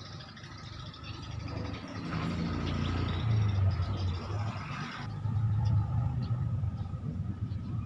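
A motor vehicle's engine rumbling, louder from about two seconds in, with a hiss over it that cuts off about five seconds in.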